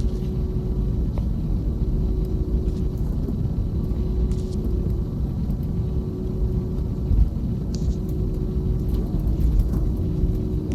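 Airbus A321neo cabin noise on the ground before takeoff: a steady low rumble with a constant hum over it, and a few faint ticks.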